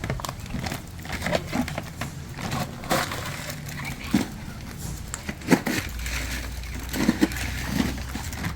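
Irregular crinkling and crunching of a bag of bird food being handled, a scatter of short crackles and clicks, with a low steady hum joining in past the middle.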